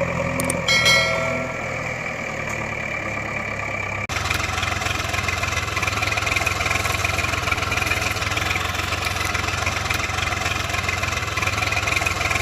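A motor vehicle engine runs steadily. A short pitched tone sounds about a second in, and just after four seconds the sound cuts abruptly to a rougher, brighter engine noise.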